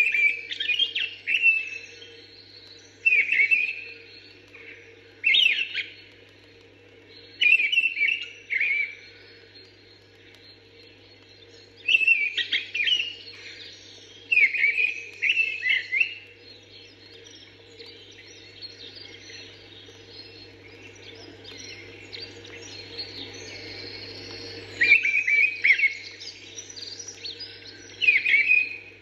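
Mistle thrush singing short, fluty phrases every two to three seconds, with other birds twittering faintly between them. A steady low hum runs underneath.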